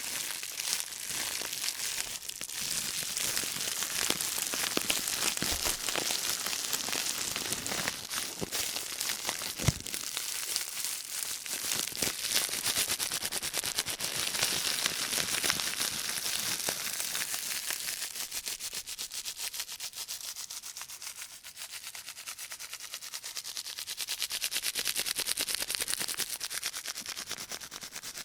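Thin white plastic shopping bag rustled and crumpled in rubber-gloved hands, a dense crinkling and crackling, recorded binaurally. It eases off for a few seconds about two-thirds through, then picks up again.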